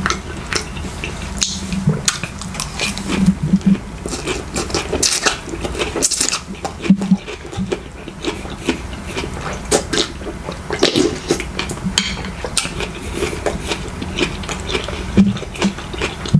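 Close-miked eating of a broth dish: slurping, chewing and mouth smacks, with utensils clinking against the bowl. The sounds come as many short, irregular clicks and smacks.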